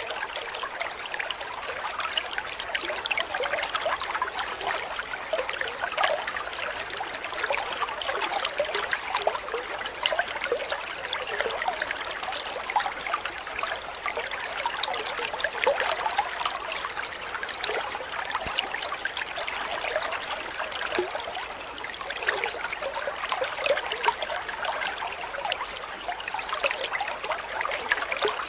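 Steady trickling, babbling water like a small stream.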